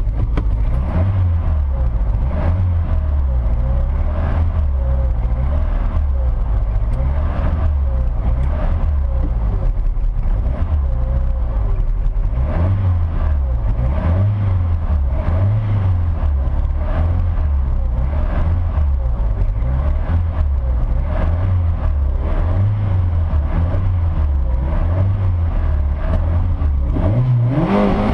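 Davrian Mk8's Hillman Imp engine running at low revs, its pitch rising and falling every couple of seconds. Near the end it revs up sharply.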